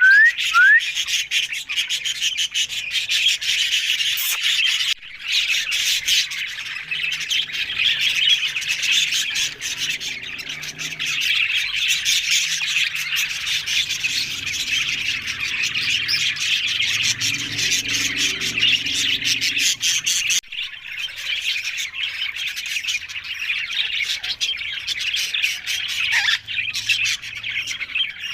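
Birds chirping and chattering densely and without a break, many quick high calls overlapping.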